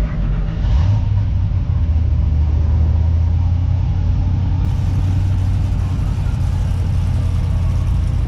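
Car engine running with a deep, steady rumble.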